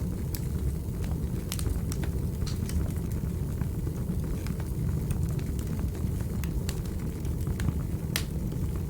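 Wood fire in a fireplace burning with a steady low rumble of flames and irregular sharp crackles and pops, the loudest pop near the end.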